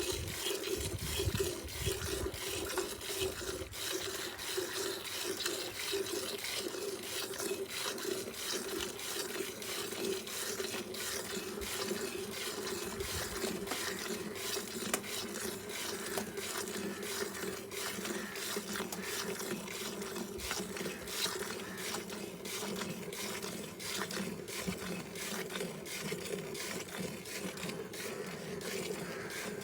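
A cow being milked: milk streaming and splashing into a container, with many fine splashes over a steady low hum.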